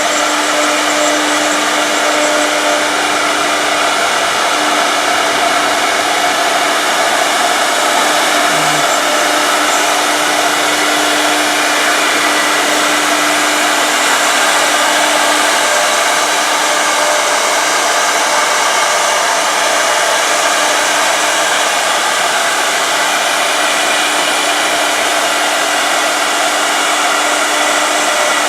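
Two-head 1325 CNC router's spindles running: a loud, steady whirring hiss with a constant hum that does not change.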